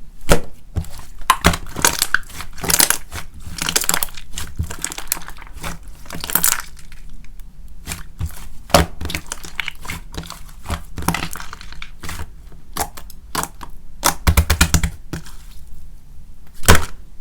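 Hands squishing, pressing and stretching a sticky slime mixed with instant snow, giving irregular crinkly, crackly squelches and many sharp little pops and clicks.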